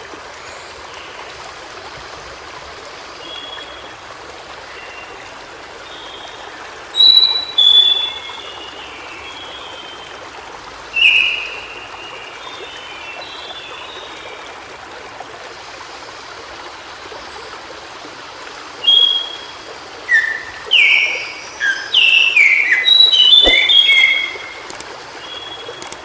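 White-browed shortwing singing over the steady rush of running water: a few scattered high whistled notes, then in the last third a quickening jumble of short, downward-sliding whistles.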